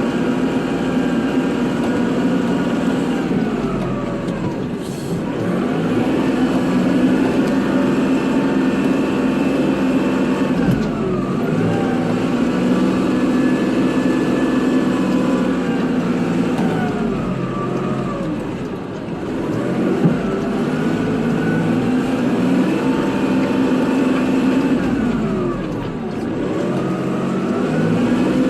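Kubota tractor's diesel engine running hard, its engine speed sagging and climbing back up about every seven seconds, four times in all.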